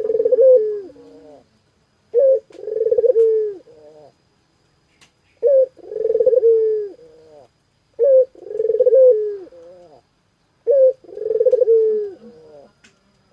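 Puter dove (domestic ringneck dove) cooing over and over, five phrases in a row. Each phrase is a short opening note followed by a longer rolling coo, about one every two and a half seconds: a bird in full, steady call.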